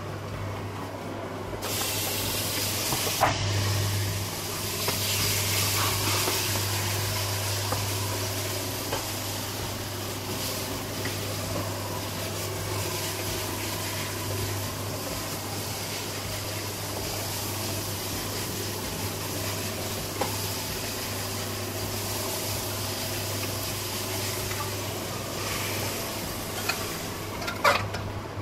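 Onion-tomato masala frying in hot oil in a kadai: a steady sizzle that starts suddenly about two seconds in. A wooden spatula stirring it gives a few scrapes and taps.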